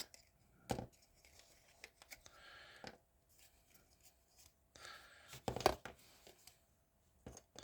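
Faint clicks, snaps and short scraping rasps of a glued-together plastic model car being worked apart by hand, with the loudest cluster of clicks a little past halfway.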